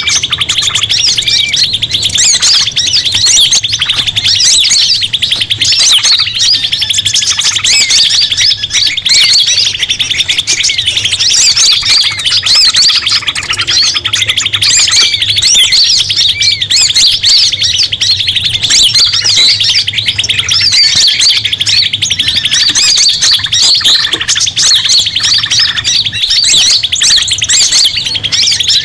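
Bird-lure recording of a noisy chorus of many small birds chirping and twittering at once over a steady rapid trill, a commotion call played to draw forest birds in.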